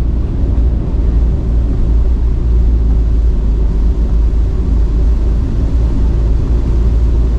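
Strong wind buffeting the microphone: a loud, steady low rumble with a hiss over it, rising and falling slightly in gusts.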